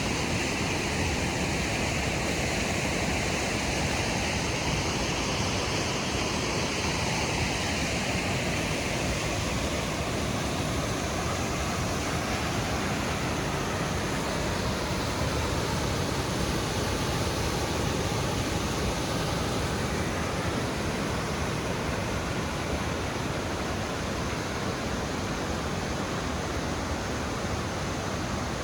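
Waterfall rushing steadily, a loud, even wash of falling water with no break.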